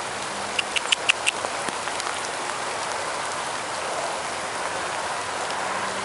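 Heavy rain pouring down steadily, with a quick run of five or six sharp ticks about a second in.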